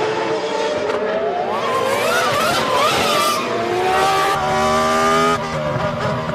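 Formula One cars' 3.0-litre V10 engines running at high revs, their pitch climbing, wavering and stepping with throttle and gear changes. The sound changes abruptly about five seconds in.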